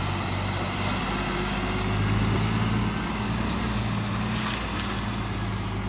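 Heavy diesel truck engine running steadily under way, its note rising a little about two seconds in and settling back about a second later.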